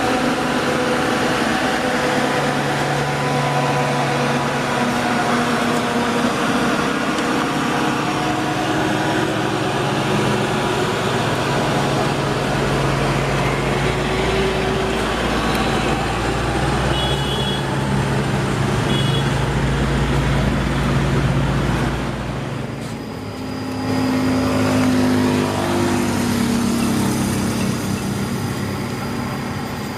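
Motor of a toy truck running steadily, its pitch shifting up and down, with a brief drop in level about 23 seconds in.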